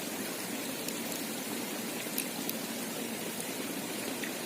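Steady rush of flowing stream water, with a couple of faint ticks about two seconds in.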